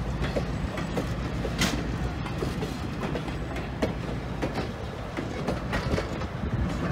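Passenger train coaches rolling past, their steel wheels clicking irregularly over the rail joints above a steady low rumble.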